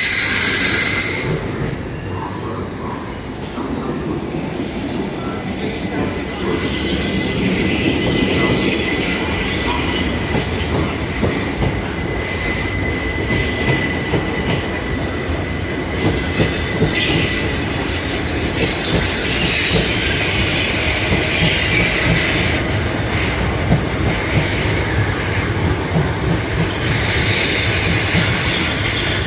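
Passenger train moving through the station, a steady rumble with wheel squeal; a thin high squeal is held for a few seconds around the middle.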